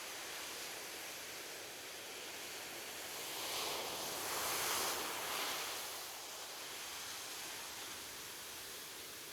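Ocean waves on a beach: a steady wash of surf, with one wave swelling and breaking about halfway through, then receding.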